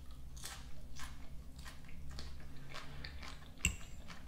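Close-up crunching and chewing of a mouthful of fresh green onion and crisp salad, with one sharper click just before the end.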